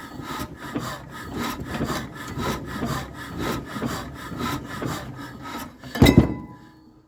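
A 1931 Ruston engine being turned over by its hand-crank starting handle, with a rhythmic rasping beat about twice a second. A loud thump comes about six seconds in, and the sound stops soon after.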